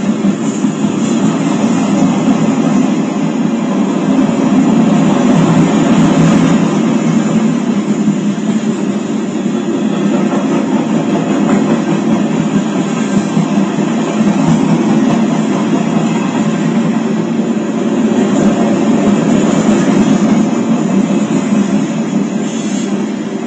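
Freight grain train rolling past, a steady rumble and clatter of steel wheels on rail with slow swells in loudness.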